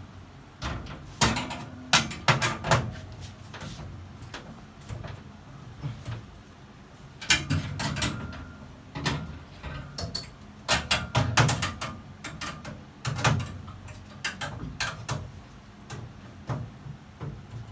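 Irregular clanks, clicks and knocks of hand tools and metal fittings being handled during installation work, some in quick clusters of several strikes.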